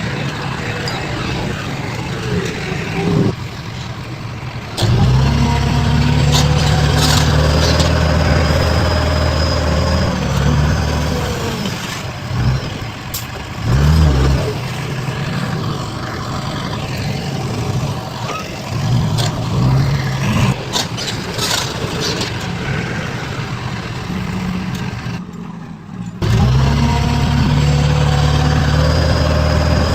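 Heavy diesel machinery engines running and revving, the engine sound changing abruptly several times.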